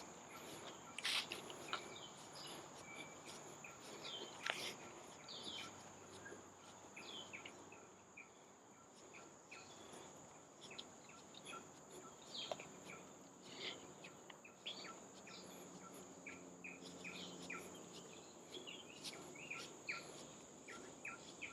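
Forest ambience: a steady high-pitched insect drone with many short bird chirps scattered throughout. Two sharp clicks, about one second and four and a half seconds in.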